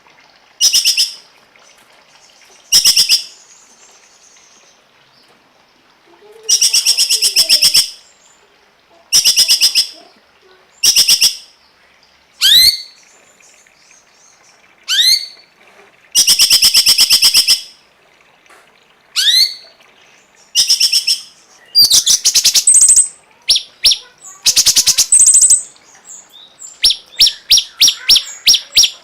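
A songbird calling in loud, separate bursts of rapid, buzzy repeated notes with short pauses between them. It is mixed with a few sharp sweeping whistles, and near the end it breaks into a fast series of repeated notes, about five a second.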